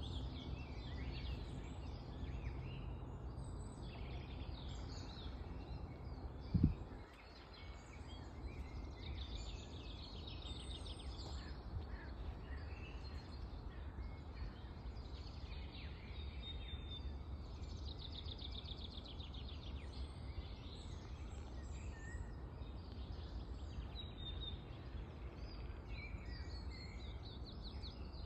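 Chorus of several songbird species singing and calling over one another in spring, with rapid trills among the songs. A single low thump about six and a half seconds in is the loudest sound, over a steady low rumble.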